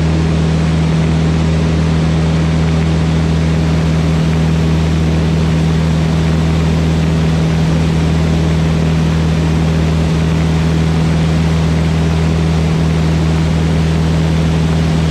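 Van's RV-8 light aircraft's piston engine and propeller running steadily in flight: a constant drone with a strong low hum that does not change in pitch or level.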